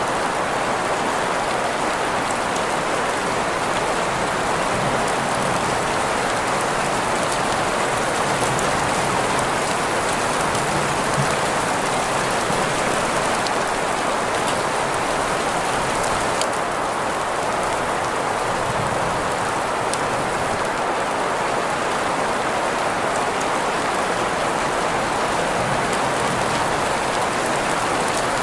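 Steady rain sound blended with green noise: an even, continuous hiss strongest in the middle range, with faint scattered drop ticks. The top end turns slightly duller a little past halfway.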